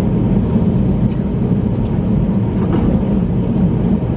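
Steady low rumble inside the passenger cabin of an Airbus A321 taxiing on the ground after landing, with a few faint ticks and clicks.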